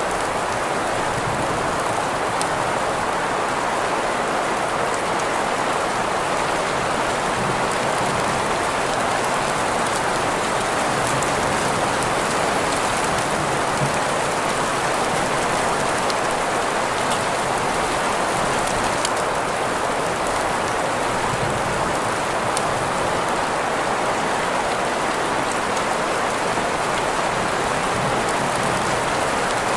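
Steady green noise mixed with rain, with faint scattered drop ticks over an even hiss centred in the middle of the range. The level stays constant throughout.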